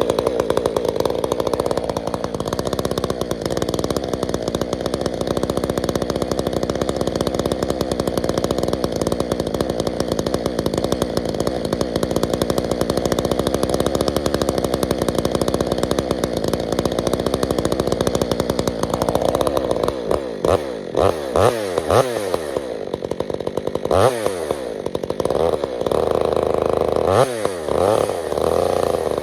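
Stihl MS 462 C-M two-stroke chainsaw, fitted with an Egan Straight Shot aftermarket exhaust, idling steadily while it warms up. From about two-thirds of the way through, the engine is revved up and down several times.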